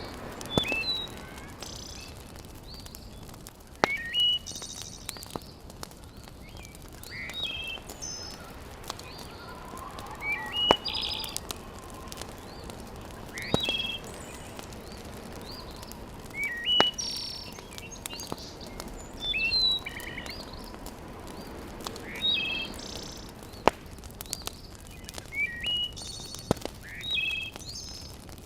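Birds chirping in short repeated phrases every few seconds, with scattered sharp pops and crackles from a wood fire in a fireplace.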